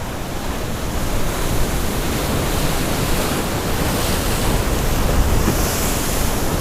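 Heavy surf from large storm swells breaking against a rock jetty: a steady wash of crashing water that builds gradually, with wind rumbling on the microphone.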